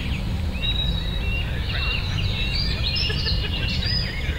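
Small birds singing: many short chirps and whistles over a steady low rumble.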